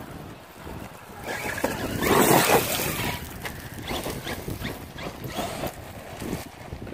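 Electric RC monster truck running over loose dirt: a rush of tyre and dirt noise that builds about a second in and peaks soon after, then fades with scattered knocks.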